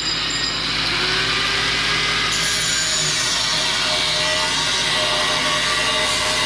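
Hand-held power tool, most likely an angle grinder, working on steel: a steady, loud running noise with a high whine, and a higher whine joining about two seconds in.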